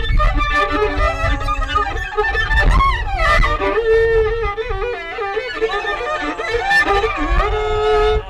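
Fiddle played freely, with held bowed notes and sliding glides between pitches. A rising slide comes about three seconds in and another near the end.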